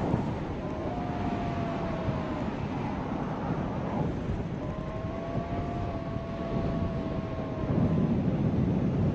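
Strong wind rushing over the microphone in flight, a steady noise that swells near the end. Through it a faint, steady whistling tone sounds twice, from about one to two and a half seconds in and again from about four and a half to eight seconds in.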